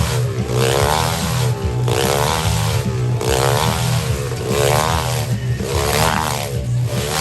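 Motorcycle engine revving as the rider circles inside a globe-of-death cage, its note rising and falling about six times, once a lap.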